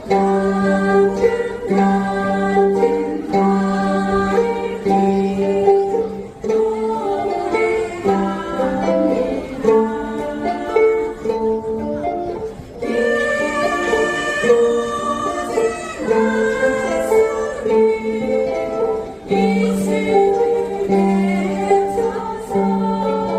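A group of ukuleles strumming chords in a steady rhythm, with singing over them.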